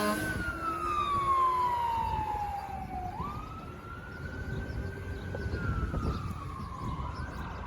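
Emergency vehicle siren on a wail: the pitch slides slowly down for about three seconds, then climbs back up, holds and falls again. Vehicle road rumble runs underneath.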